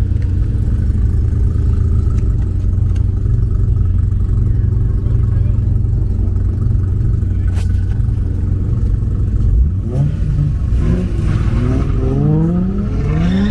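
Car engine running with a steady low drone, then revving up in several rising sweeps over the last few seconds.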